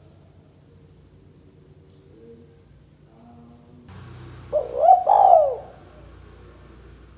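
Spotted dove (tekukur) cooing: faint low coos at first, then a little over four seconds in a loud, close call of several rising-and-falling notes lasting about a second.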